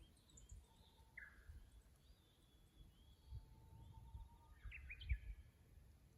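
Faint song of a Japanese bush warbler (uguisu) with other bird calls: a long held whistle, then a quick burst of notes near the end. Low uneven rumbling runs underneath.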